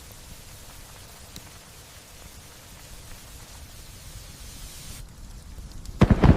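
Light, steady rain falling. Near the end a sudden loud clap of thunder breaks in, much louder than the rain.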